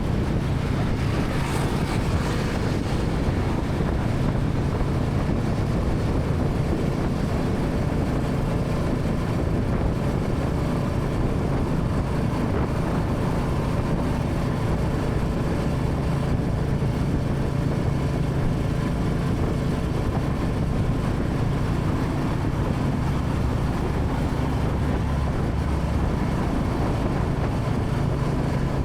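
Royal Enfield Classic 350's single-cylinder engine running steadily under way, with its exhaust note held at an even speed. A brief high hiss passes about a second in.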